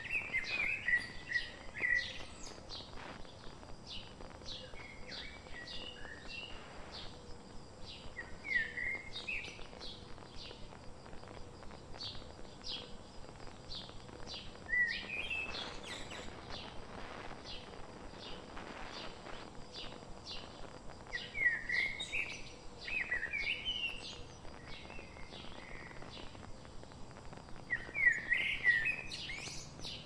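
Small birds chirping in short bursts of quick rising notes, about six times, over a steady run of short high ticks.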